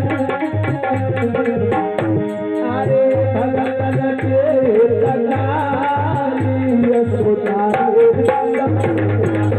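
Devotional aarti music: tabla playing a steady rhythm under a gliding melody line.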